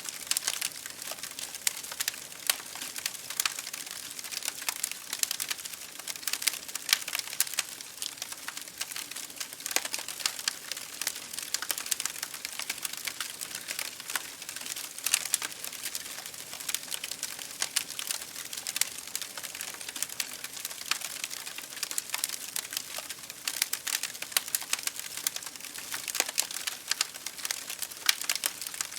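Wood fire crackling in a fireplace, mixed with rain drops tapping on a window pane: a dense, steady patter of small clicks and pops over a soft hiss.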